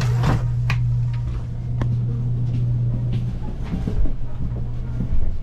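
Train running with a steady low hum and a few scattered clicks and knocks, the first and loudest right at the start.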